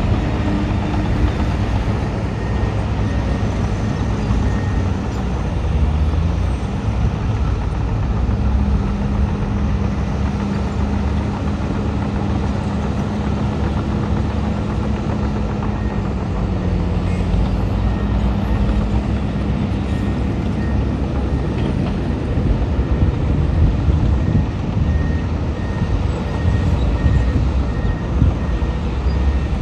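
Heavy diesel earthmoving machinery running steadily under load. A reversing alarm beeps at an even pace near the start and again near the end.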